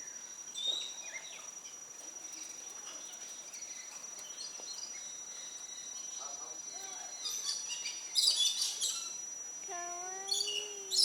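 Parakeets chirping and squawking in two sharp clusters about two-thirds of the way in and again near the end, over a steady high-pitched whine.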